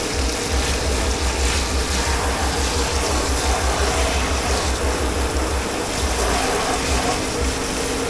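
Steady rush of running water over a low, uneven rumble, the noise of a commercial dishwashing station at work.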